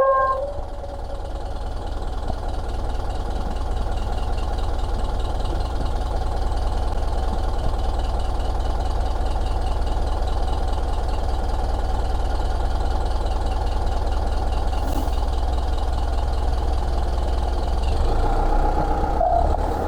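Steady low rumble of a motor vehicle's engine running close by, with a fine, even ticking higher up; the sound shifts about 18 seconds in.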